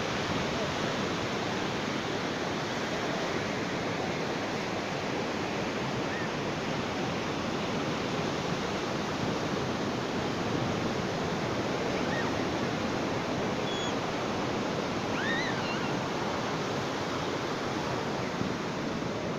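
Ocean surf washing on a beach as a steady, unbroken rush of waves. A few faint high chirps come through about two-thirds of the way in.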